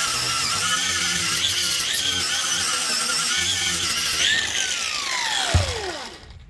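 Power tool fitted with a wire wheel running and scrubbing rust and buildup off a truck's leaf-spring mounting area, a steady whine with a scratchy hiss. About four seconds in it is let off and winds down, its pitch falling as it spins to a stop.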